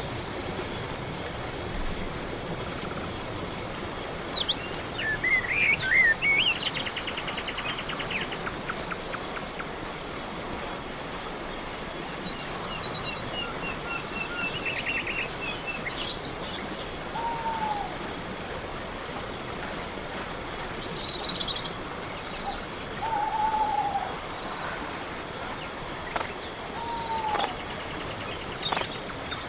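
Night-forest ambience: crickets chirping in a steady, evenly pulsing chorus, with a few short bird chirps and trills and several brief downward-slurred calls over it.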